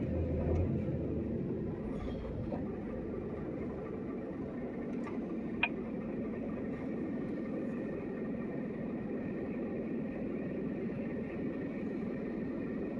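Steady engine and road hum of a 40-ton truck on the move, with one brief high chirp a little past halfway.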